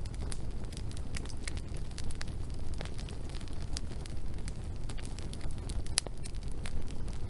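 Wood fire burning, with a steady low rumble of flames and irregular sharp crackles and pops from the burning logs; one pop about six seconds in is louder than the rest.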